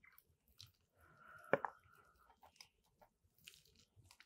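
Faint close-up mouth sounds of biting, tearing and chewing at a tough, dry piece of chicken held in the hands: scattered small clicks and smacks, with one sharper smack about a second and a half in.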